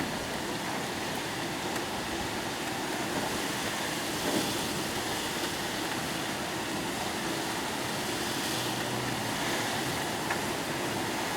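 Heavy typhoon rain pouring down in a steady, unbroken rush, with a faint low hum underneath.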